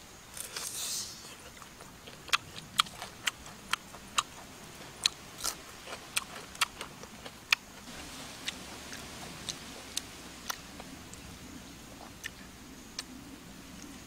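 Close-up chewing of grilled pig-head meat: a run of sharp, crisp clicks, about two a second for several seconds, then sparser.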